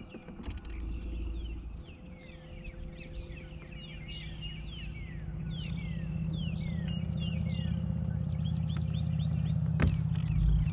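Boat motor running with a steady low hum that grows louder about halfway through, while many birds call with short falling chirps. A single sharp knock comes near the end.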